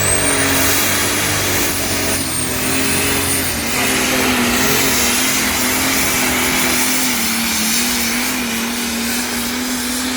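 Pulling tractor's engine running hard at high revs under load as it drags the weight sled down the track, with a high whine above the engine noise.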